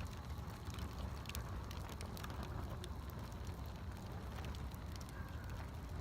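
Campfire burning with scattered sharp crackles and pops over a steady low rumble.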